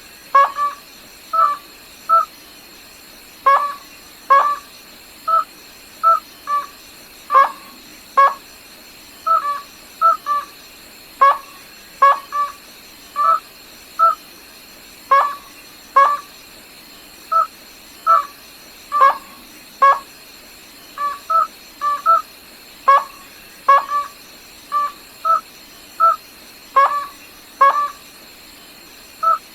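Rail (Vietnamese gà nước họng trắng) calling: short, sharp notes repeated about once or twice a second, often in pairs or small clusters, as a call to the flock. A faint steady high whine runs underneath.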